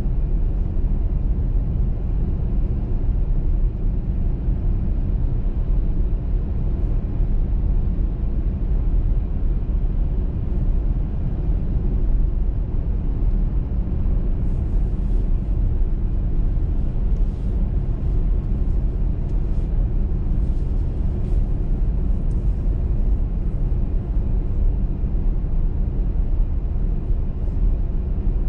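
Car driving on a motorway in a snowstorm: a steady low rumble of tyre and road noise, with faint light ticks through the second half.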